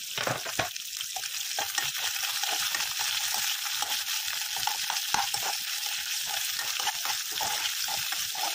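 Sliced onions and green chillies sizzling in hot oil in a non-stick kadai, freshly added and frying, while a steel spoon stirs them with frequent short scrapes and taps against the pan.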